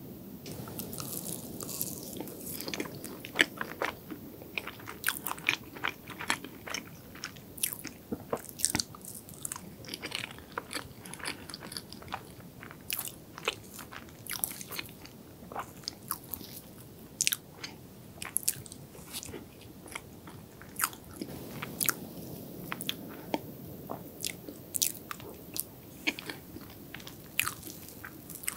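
Close-miked chewing of soft chocolate crepe cake: wet mouth sounds with many irregular sharp clicks.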